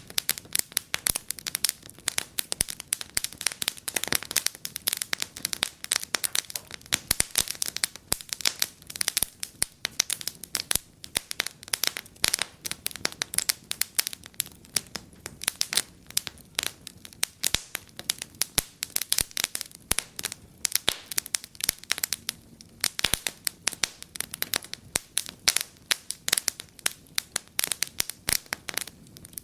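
Wood fire in a fireplace crackling: a dense, irregular run of sharp snaps and pops.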